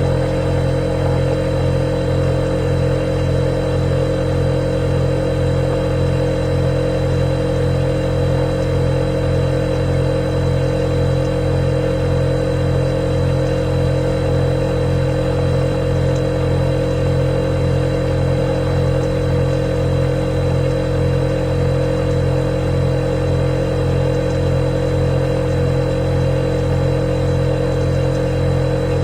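Refrigerator running with a steady, unchanging hum and a thin, faint high whine above it.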